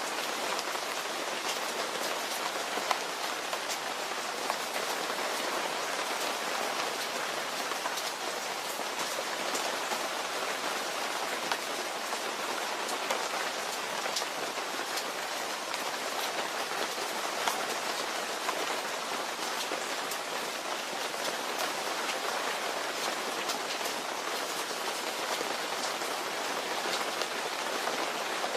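Steady rain falling, an even hiss with scattered sharper drop hits on a surface.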